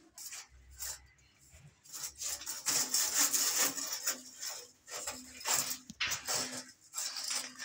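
Repeated rasping, scraping strokes of hand work on the wiring run, quiet at first and louder from about two seconds in.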